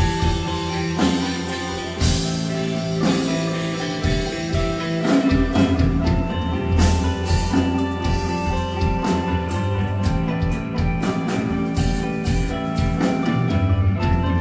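Post-rock band playing live: sustained guitar and bass notes over a drum kit. The drumming builds to a rapid run of cymbal strokes about halfway through.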